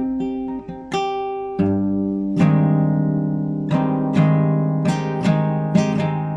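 Classical guitar played solo in an improvisation: a plucked single-note melody, then from about a second and a half in, fuller chords over ringing bass notes, struck roughly twice a second.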